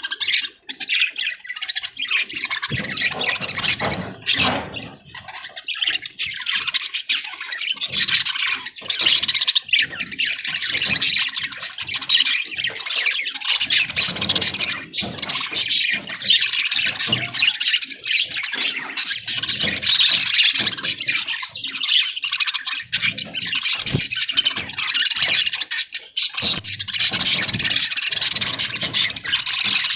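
A flock of budgerigars chattering and warbling together without pause, a dense high-pitched twittering.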